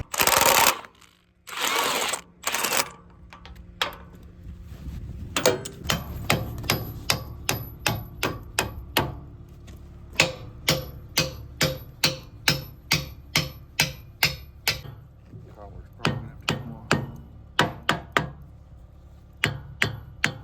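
A hammer striking steel over and over, about two blows a second with a high metallic ring, while a hammermill's bearing assembly is being knocked apart. A couple of short rushing noises come before the blows begin.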